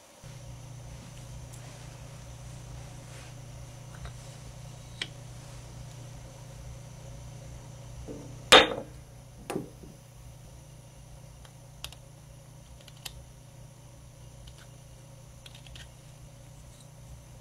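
Steady low hum with scattered small clicks and taps, and one sharp knock about halfway through followed by a lighter one a second later.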